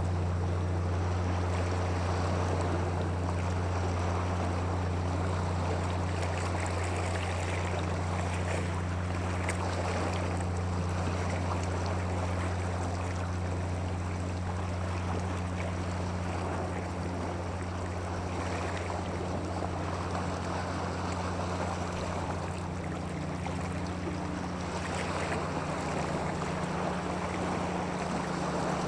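Steady rushing of water, swelling and easing every few seconds, over a constant low hum.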